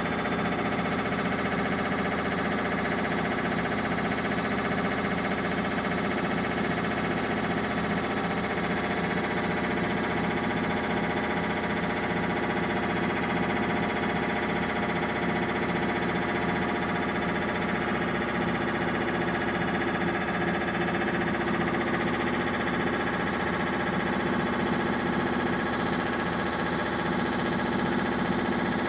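Primus 12 kg commercial washing machine in its final spin at high speed, running steadily with a motor whine over a drum rumble. The load is badly unbalanced.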